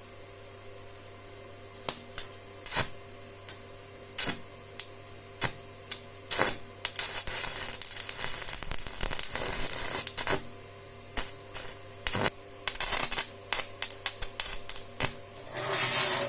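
A run of sharp, irregular clicks and knocks from small hard objects being handled, with a few seconds of dense scratchy noise in the middle, over a steady low hum.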